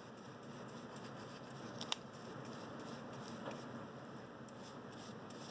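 Faint soft dabbing and brushing of a paintbrush working a rubbery crack-filling sealant over a rubber intake boot, with one sharp click about two seconds in.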